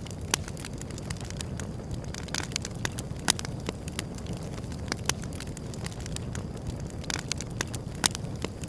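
Wood fire crackling: a steady low rumble of burning with irregular sharp pops and snaps, the loudest about three seconds in and near the end.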